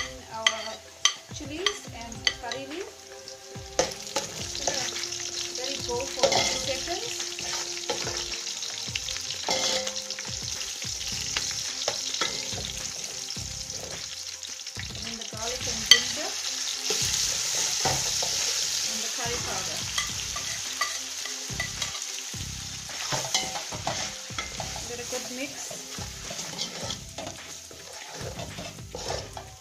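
Sliced onions, whole spices and curry leaves sizzling in hot oil in an aluminium pot, with a spoon scraping and clinking against the pot as they are stirred. The sizzle grows louder a few seconds in, and there is one sharp knock of spoon on pot in the middle.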